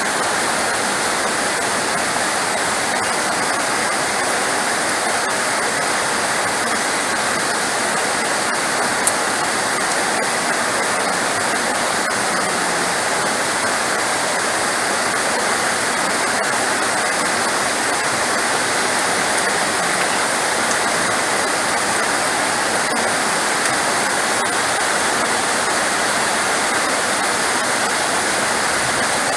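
Heavy rain falling, a steady dense hiss that does not change.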